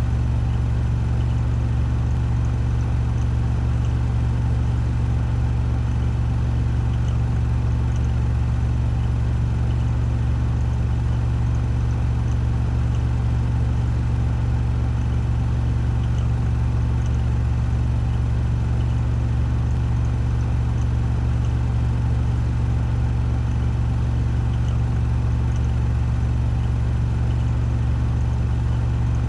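Washing machine on its 1400 rpm spin cycle: the drum spinning at full speed with a steady, deep hum and a faint whir above it.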